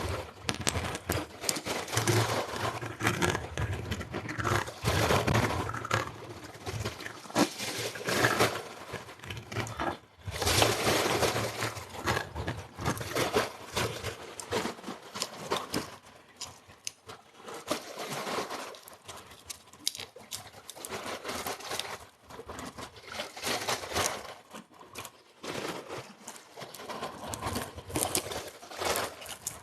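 Close-up crinkling and rustling: dense, irregular crackles that swell and fade in spells of a few seconds.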